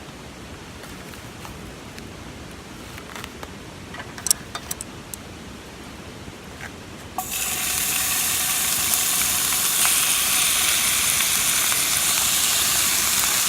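A few light clicks and taps, then about seven seconds in, yakiniku meat laid on a hot grill starts sizzling, and a loud, steady sizzle continues.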